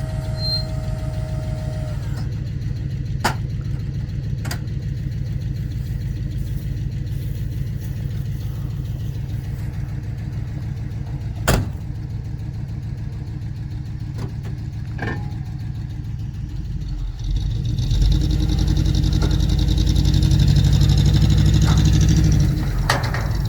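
A vehicle engine running steadily, with a few sharp clicks or knocks. About three quarters of the way through it grows louder for around five seconds, as if under more throttle, then drops back.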